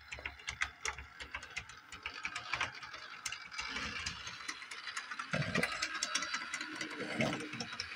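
Bachmann Doodlebug model railcar's motor and gear train running, with rapid clicking throughout that grows denser and louder about three and a half seconds in as the car gets going.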